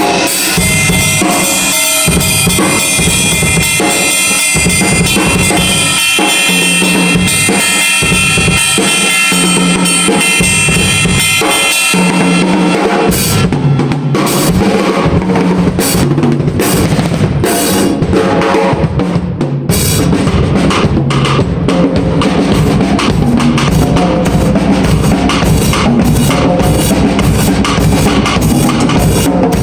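A drum kit being played, with bass drum and snare. Cymbals ring under the playing for about the first twelve seconds, then the cymbal wash drops away and the drums come through as separate sharp hits.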